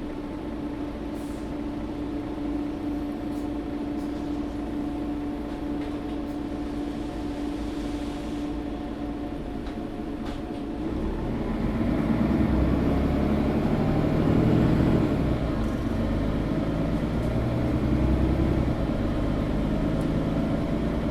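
Interior sound of a Mercedes-Benz O530 Citaro facelift articulated city bus. For about the first ten seconds it runs at a steady low hum, then about eleven seconds in the engine note rises and the sound gets louder as the bus accelerates away.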